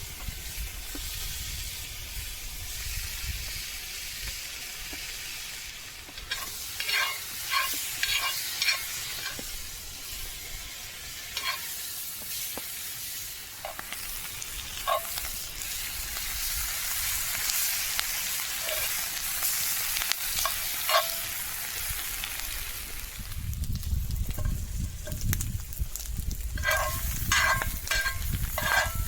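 Bacon sizzling in a pan over a campfire: a steady high hiss with bursts of sharp crackles and pops here and there.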